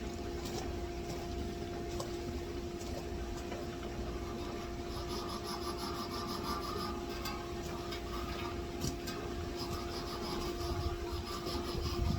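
A steady electrical hum with scattered light clicks and ticks, denser in the middle stretch.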